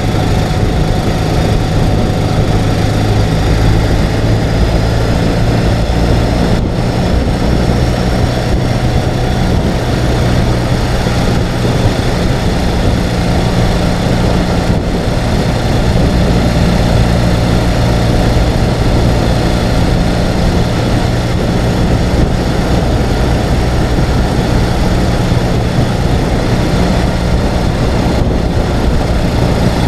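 Ural sidecar motorcycle's air-cooled flat-twin engine running at a steady pace, under a constant rush of wind and road noise.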